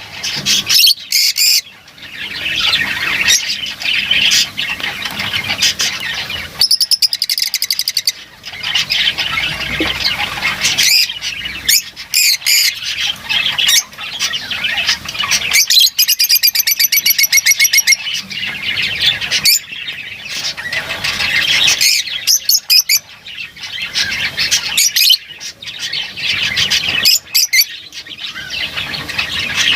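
Lovebirds chattering and squawking almost without a break in shrill, high calls. Twice, about a quarter of the way in and just past the middle, this gives way to a fast run of evenly repeated chirps.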